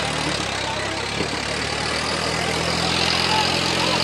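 Swaraj 855 tractor's diesel engine idling steadily, its low note growing stronger about two seconds in.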